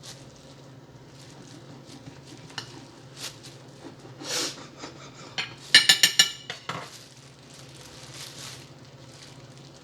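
Dishes and cutlery being handled while making a sandwich: light knocks and a short rustle, then about six seconds in a quick run of ringing metallic clinks, over a steady low hum.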